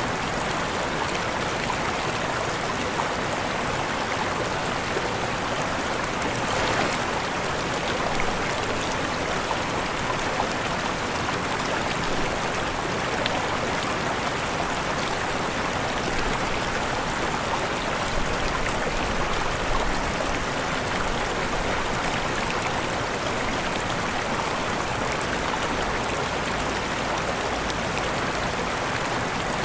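Waterfall: steady, dense rushing of falling water.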